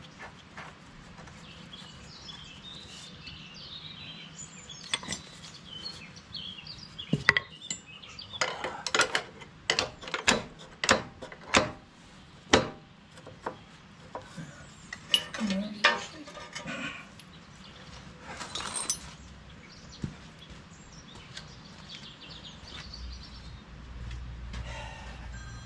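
Irregular metallic clinks and knocks of spanners and bolts being handled during work on a backhoe's hydraulic fittings, busiest in the middle. Birds chirp faintly in the background near the start and near the end.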